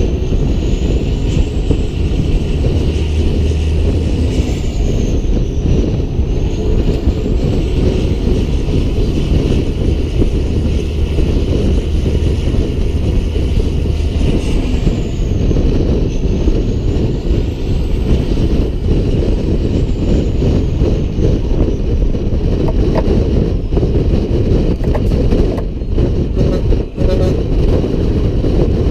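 Peterbilt 388 semi-truck's diesel engine running steadily on the road, with a faint high whistle that dips in pitch and climbs back twice.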